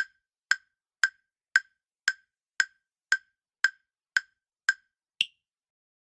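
Quiz countdown-timer sound effect: eleven short, woody ticks about two a second, the last one higher-pitched, marking the end of the answer time.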